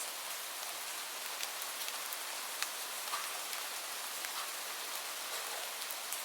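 Steady rain falling, an even hiss with scattered sharp drips of individual drops landing.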